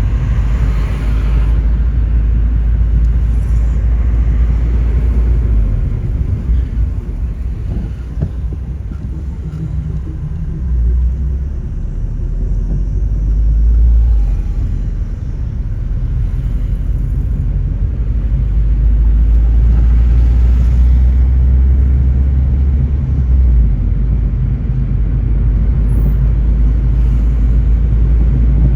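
A car driving: a steady low rumble of engine and tyres on the road, dipping a little midway and growing louder in the second half.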